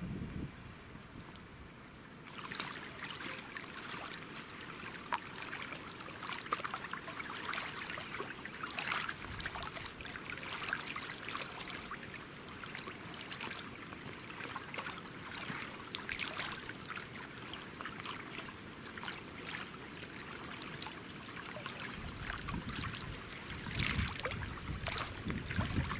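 Water splashing and lapping in a steady stream of small irregular splashes, with a low rumble building near the end.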